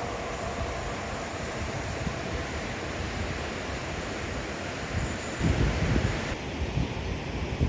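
A passing train's steady rumble, its faint whine fading out early on, with gusts of wind buffeting the microphone a little after halfway through and again at the end.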